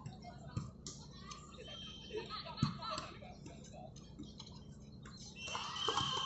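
Indistinct voices and chatter at a sports match, with a few scattered thumps and a short high-pitched tone near the end.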